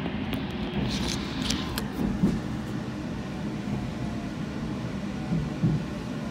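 A local passenger train running, heard from inside the car as a steady low rolling rumble. A few sharp clicks come in the first two seconds, and there are soft swells in the rumble.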